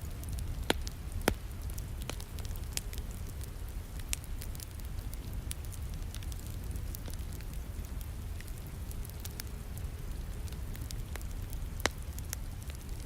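Wood fire crackling in a fireplace, with scattered small snaps and a few sharp pops, over a steady hiss of falling rain.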